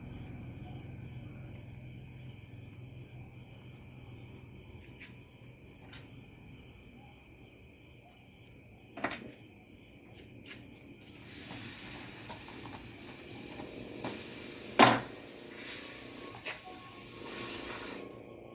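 Air hissing for several seconds in a few spurts, typical of compressed air during tubeless tyre work. There is a sharp click about halfway through and a louder knock in the middle of the hiss.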